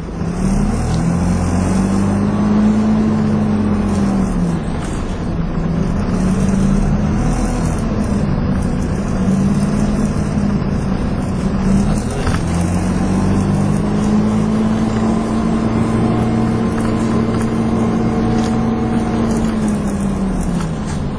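Dennis Dart SLF bus under way, its engine and drivetrain whine (the sound the title labels 'hoover') climbing and dropping in pitch four times as the bus speeds up and eases off, with the longest climb from about halfway to near the end.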